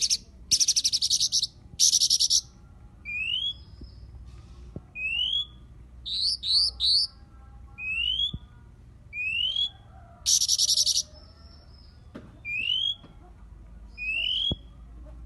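A songbird singing: short rising whistled notes repeated roughly once a second, broken by several loud, harsh, buzzy rattles.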